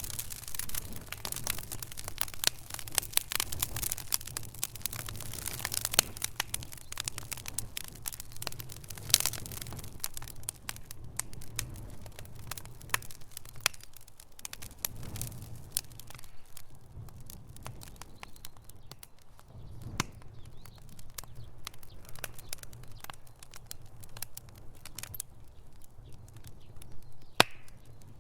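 Wood fire burning in a fireplace, crackling with many sharp pops over a low rumble; the crackling is dense for the first ten seconds or so and thins to scattered louder pops later.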